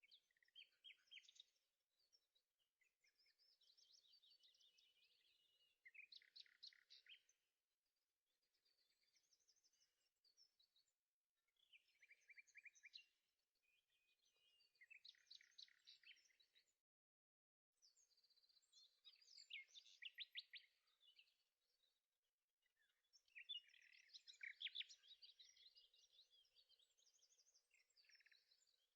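Faint birdsong: a bird singing short phrases of quick chirps and trills, a new phrase every few seconds.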